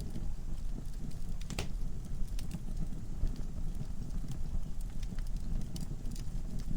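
Wood fire burning in a fireplace: a steady low rumble of flames with scattered sharp crackles and pops, one louder pop about a second and a half in.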